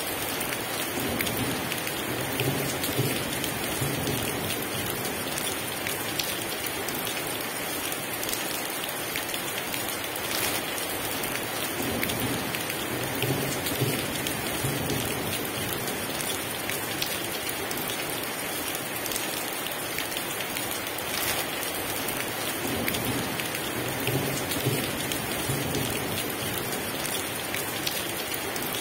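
Heavy rain pouring steadily, with low rolls of distant thunder rumbling three times.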